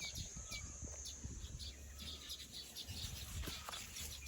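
Birds chirping outdoors: many short, quick chirps and a few brief whistled notes, faint, over a steady high-pitched tone.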